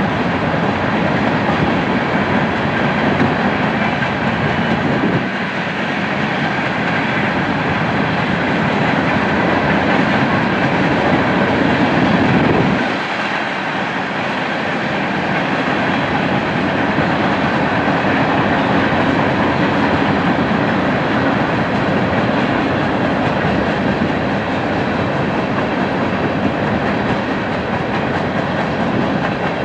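Freight cars rolling past on the rails, a steady rolling rumble of wheels on track. The low rumble dips briefly twice, about five and thirteen seconds in.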